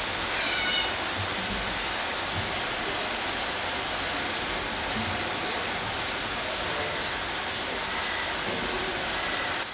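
Steady rushing background noise with a small bird chirping short, high, falling notes over and over, about once or twice a second.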